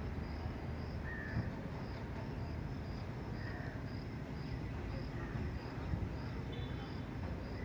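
A cricket chirping in short, high-pitched pulses about twice a second over a steady low rumble, with a few faint short chirps from another animal.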